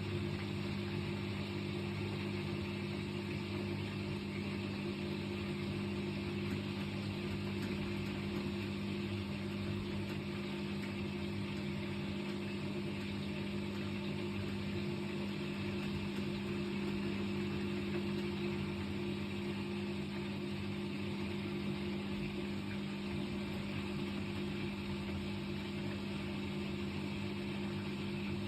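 Washing machine running and shaking badly, a steady drone with a low hum.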